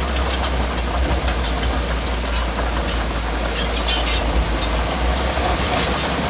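Heavy diesel earthmoving machinery running steadily under load, with scattered metallic clicks and clanks over a constant low engine hum.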